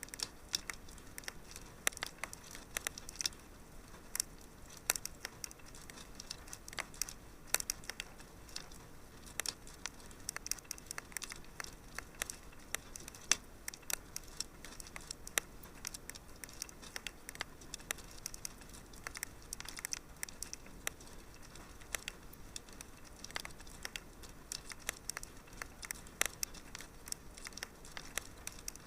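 Fire in a fireplace crackling: irregular sharp snaps and pops, several a second at uneven spacing, over a soft steady hiss.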